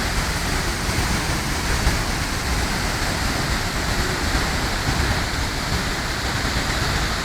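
Waterfall pouring: a steady, loud rush of falling water with a deep rumble underneath.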